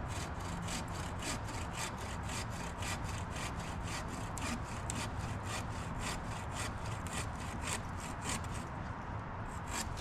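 Hand saw cutting through wood, with quick, even back-and-forth strokes, about four a second, that stop about eight and a half seconds in.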